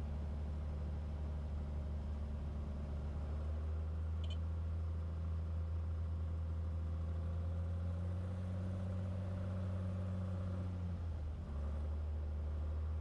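Cessna 182 piston engine and propeller running steadily in flight, a constant low drone that dips briefly near the end before returning. A faint short click about four seconds in.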